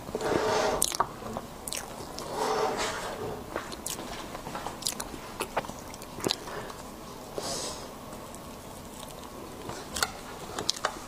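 Close-miked eating sounds of soft mousse cake being chewed, with wet mouth noises and scattered sharp clicks.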